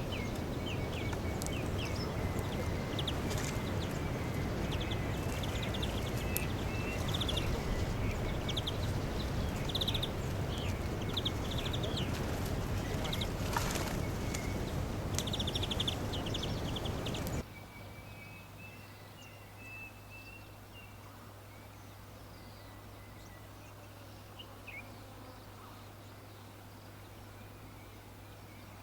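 Small birds chirping in quick repeated notes over a steady rushing background noise. About 17 seconds in, the noise cuts off abruptly, leaving fainter bird calls over a low steady hum.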